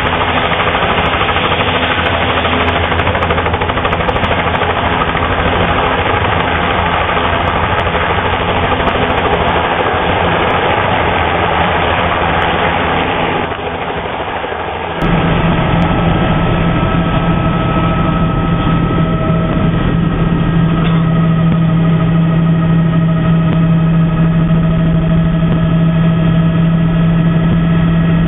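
Engine running steadily under a dense roar. About fourteen seconds in the roar dips briefly, then gives way to a steady low hum with a fixed pitch.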